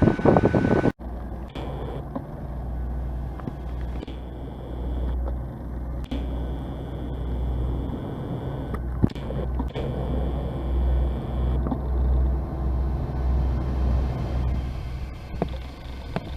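Train at a station: a steady, slightly pulsing low rumble with a faint high whine that comes and goes, after a loud noisy burst that stops suddenly about a second in.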